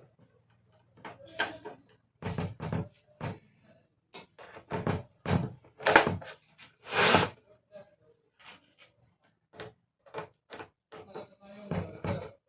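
Irregular knocks, clicks and clatters of a plastic electric room heater being taken apart by hand, with a longer scraping sound about seven seconds in.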